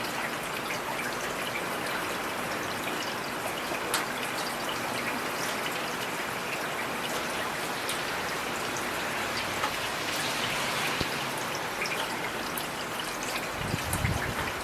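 Heavy rain falling steadily, with individual drops ticking sharply on hard surfaces. A brief low rumble comes in near the end.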